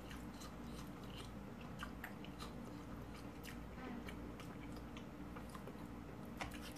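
Close-up chewing of a mouthful of stuffed bell pepper with rice and ground beef: a faint, irregular run of small mouth clicks and smacks, with a sharper click near the end.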